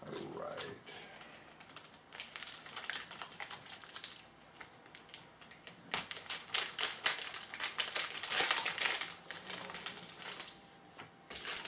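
A trading card pack's wrapper being torn open and crinkled while the cards are handled: a run of crackling and quick clicks, busiest from about halfway through.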